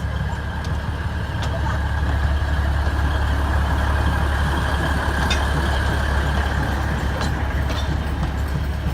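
Alishan Forest Railway locomotive engine running with a steady low rumble, a faint steady whine above it and a few light clicks.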